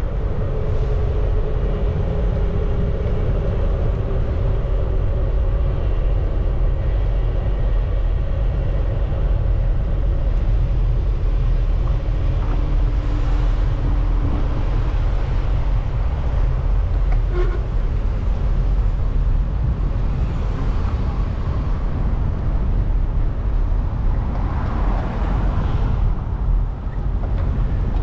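Wind rumbling steadily on the microphone of a moving bicycle, with city street traffic passing.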